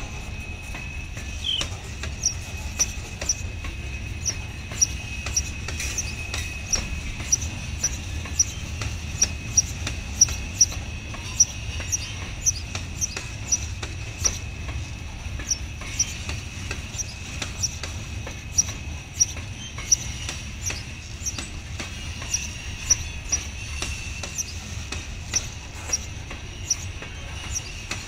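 Freight train cars rolling slowly past: a low steady rumble with a run of short, high-pitched clicks and squeaks from the wheels, about one and a half a second.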